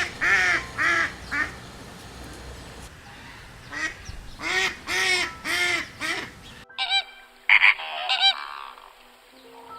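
Birds calling in runs of short, repeated pitched calls: one run at the start and another a few seconds in. Near the middle the background changes suddenly and a different set of calls follows.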